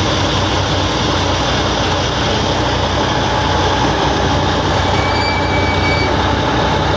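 Truck engine running steadily with a constant low rumble.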